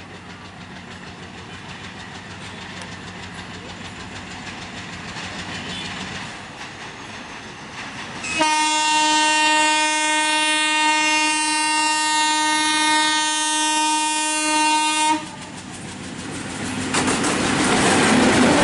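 Bangladesh Railway diesel locomotive approaching with a rising rumble, then sounding one long horn blast of about seven seconds that cuts off sharply. As the horn stops, the locomotive and coaches roll past close by with wheels clattering over the rail joints, growing louder.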